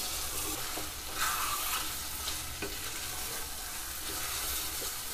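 Browned mutton masala sizzling in oil in a kadhai while a wooden spatula stirs and turns it, with soft scrapes against the pan. The masala is being fried with dried fenugreek leaves (kasuri methi) at the end of the bhuna stage.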